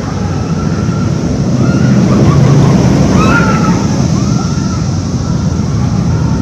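Roller coaster ride heard from a rider's seat: loud rushing wind buffeting the microphone over the rumble of the coaster train on its track, swelling about two seconds in, with faint distant voices yelling.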